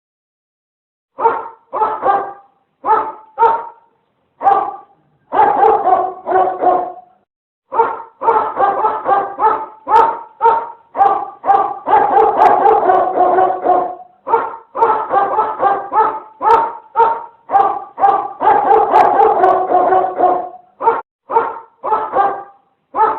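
Dog barking over and over, in single barks and quick runs of barks, starting about a second in.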